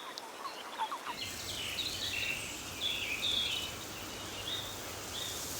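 Small birds chirping in short, repeated high calls over a steady outdoor hiss and low hum, which comes in about a second in.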